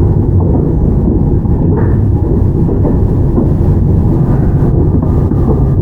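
Interior running noise of a Toyama Chiho Railway 17480 series electric train car (ex-Tokyu 8090 series, field-chopper control) under way: a steady, loud rumble of wheels on rail and traction equipment.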